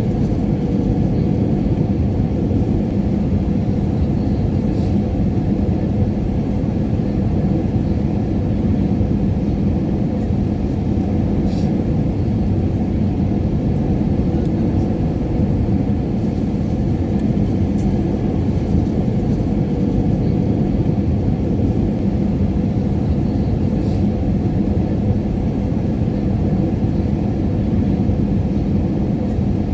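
Steady airliner cabin noise in flight: a constant low rumble with a steady hum, and a few faint ticks.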